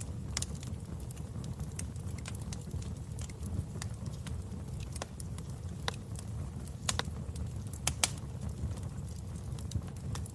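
Wood fire burning in a fireplace: irregular sharp crackles and pops over a low steady rumble, the loudest pop about eight seconds in.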